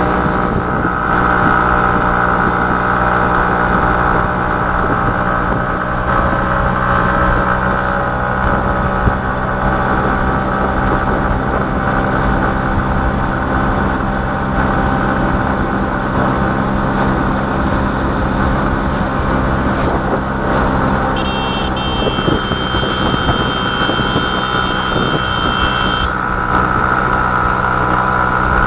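A motor vehicle's engine running steadily at an even pitch. About three-quarters of the way through, a high steady tone joins it for roughly five seconds.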